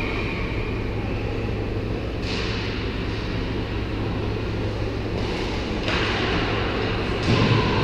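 Ice hockey rink ambience: a steady low hum with hissing skate-blade scrapes about two seconds in and again around six seconds, and a short thud near the end.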